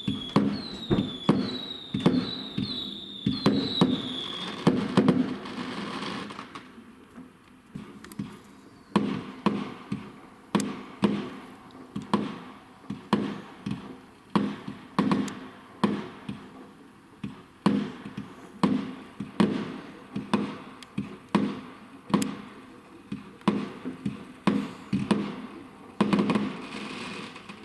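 Fireworks going off in a long run of sharp bangs, roughly one or two a second. Short falling whistles sound alongside the bangs for the first few seconds.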